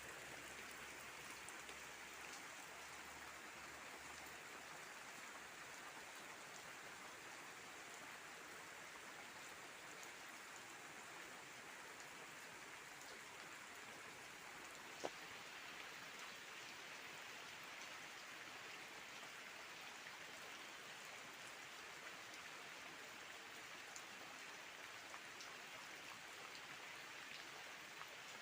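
Rain falling steadily, a faint even hiss with scattered individual drops; one sharper drop-tick about halfway through.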